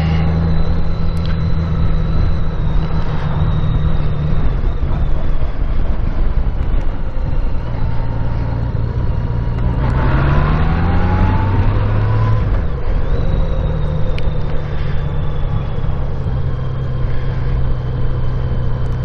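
Honda Gold Wing F6B's flat-six engine running while under way, with steady road and wind noise. About halfway through, the engine note rises and then falls back.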